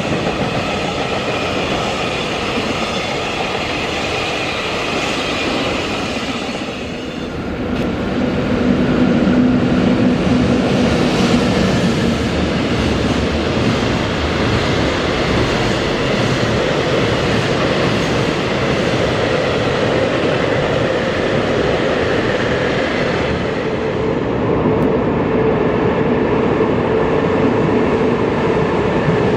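Freight train running past, a steady loud rumble of steel wheels on the rails that changes character about a quarter of the way in and again near the end.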